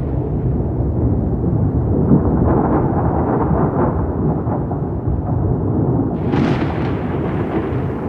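Rolling thunder rumbling continuously, with a sharper crack of thunder breaking in about six seconds in.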